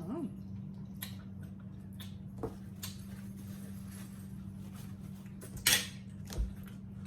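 Plates and cutlery clinking and knocking as people eat at a table, in scattered light taps with one louder knock a little before the end, over a steady low hum.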